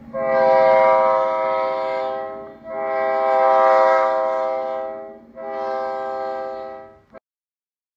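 Locomotive whistle sounding three blasts, two long and a shorter third, a steady multi-note chord that cuts off abruptly.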